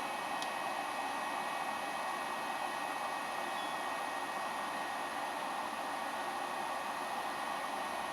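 High-speed electric spindle running steadily under a variable-frequency drive: a steady, airy whir with faint high whine tones over it. A single click about half a second in.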